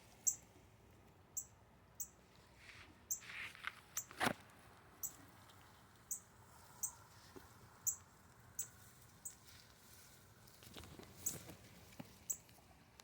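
Northern cardinal giving sharp, high alarm chips, one about every second, at a nest it is defending. Soft rustles and a single knock about four seconds in come from the nest tree's branches being handled.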